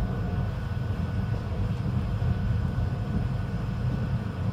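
PESA 620M diesel railcar running: a steady low rumble with a faint, steady high whine over it.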